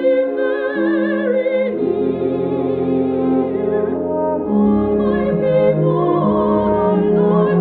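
Soprano singing with vibrato over a sustained orchestral accompaniment. The orchestra fills out with deeper notes about four and a half seconds in.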